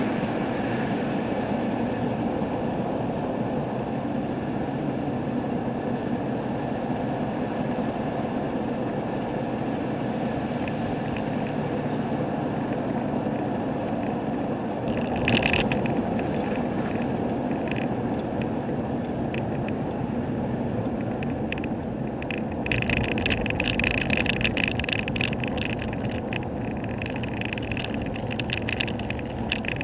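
Steady engine and road rumble inside a vehicle driving on the highway. A brief crackle comes about halfway through, and a rapid crackling joins the rumble for the last third.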